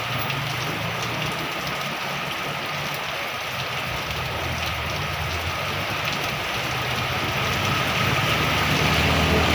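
Heavy rain falling steadily, with a low rumble growing louder near the end.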